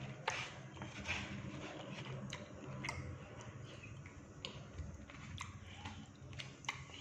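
Close-up eating sounds: a person chewing batagor, fried fish dumplings, with irregular wet smacks, crunches and sharp clicks, the loudest just after the start. A steady low hum runs underneath.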